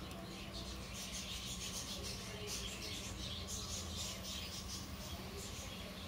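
Small birds chirping faintly in quick, irregular high-pitched peeps, over a steady low hum.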